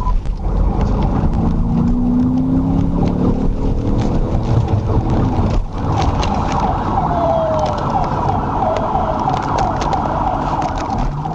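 Police car siren sounding during a pursuit, its pitch sweeping up and down more quickly in the second half, over loud engine and road noise from the patrol car.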